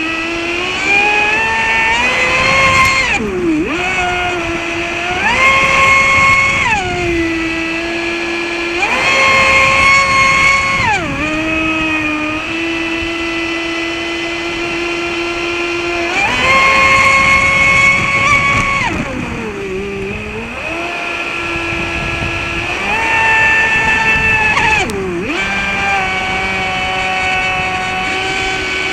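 Traxxas Spartan RC boat's electric brushless motor, running on two 3S lipo packs, whining as the throttle is worked: the pitch climbs, holds steady for a second or more, then drops, over and over, with one long steady run in the middle.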